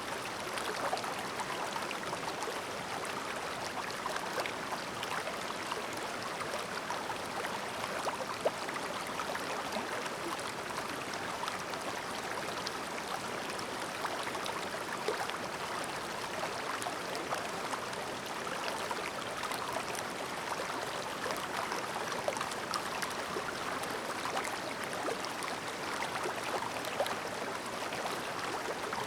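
Shallow clear mountain stream babbling over rocks: a steady flow of water with many small splashes and trickles flickering through it.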